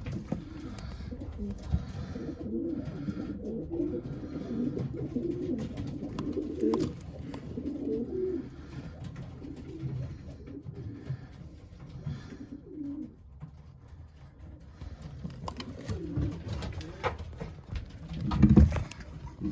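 Racing pigeons cooing in the loft: low, warbling coos that come thickly for the first dozen seconds, then thin out, with one louder low burst near the end.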